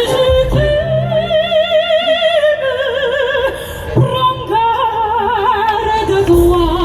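Two sopranos singing in classical operatic style with wide vibrato, the two voices overlapping in harmony from about the middle on, over sustained low accompaniment notes.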